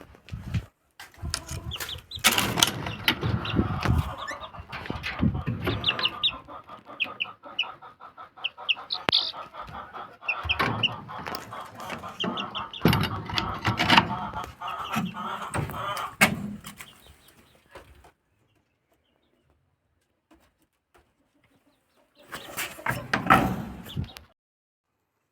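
Pet birds calling and chattering in many short chirps and calls. The calls stop about 18 seconds in, and a short burst returns near the end.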